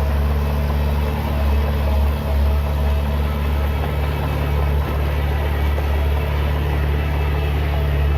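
Heavy diesel engine of earth-moving machinery running steadily with a deep, constant hum.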